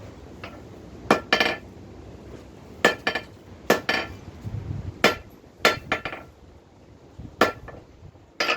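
Blacksmith's hand hammer striking hot steel on an anvil while forging a nail: about ten ringing metallic blows, irregularly spaced and often in quick pairs with short pauses between.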